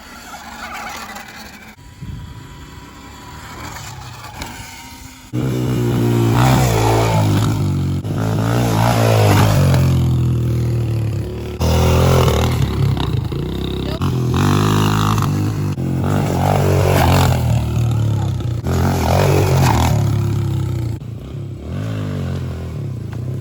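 Dirt bike engine revving up and down repeatedly as the bike rides over a run of whoops, quieter for the first few seconds and then loud and close from about five seconds in.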